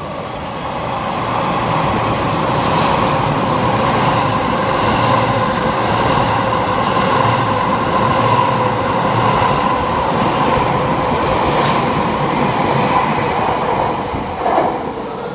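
Electric train running non-stop through a station platform: a steady rumble with a hum and faint regular clicks from the wheels, swelling about two seconds in and easing off near the end, with one sharp knock just before it ends.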